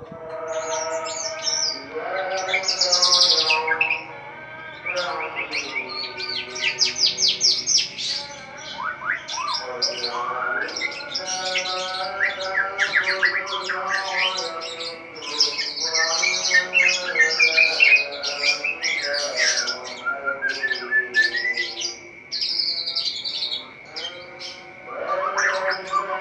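White-rumped shama (murai batu) singing vigorously: rapid, varied phrases of high whistles, fast trills and chattering notes, with short pauses between phrases. A lower pitched sound with several overtones, sliding slowly in pitch, runs beneath much of the song.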